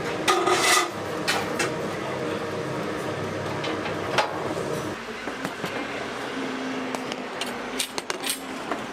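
Kitchen work sounds: a scrape early on, then scattered knocks and clicks of utensils over a steady background hum.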